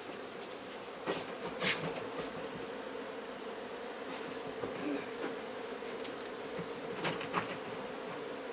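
Honeybees buzzing in a steady mass hum from an opened colony, with a few sharp clicks or knocks.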